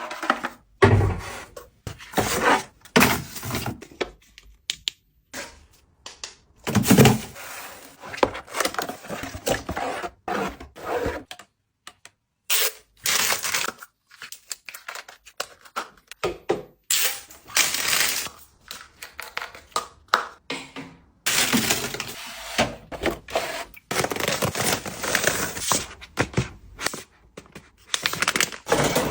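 Packaging handled during an unboxing: irregular rustling, tearing and tapping noises with sharp knocks, broken by a few short silent gaps.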